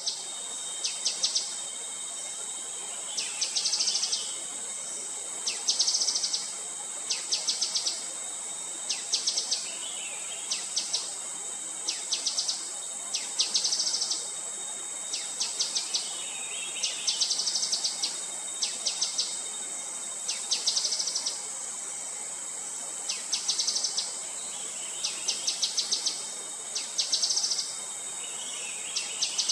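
Gray-headed canary-flycatcher calling: short, rapid, high trills repeated every second or two. A steady high insect drone runs underneath.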